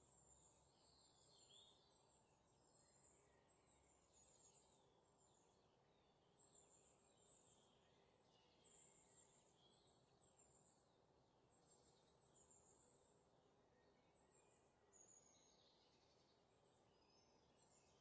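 Near silence, with faint, short, high bird chirps scattered through it.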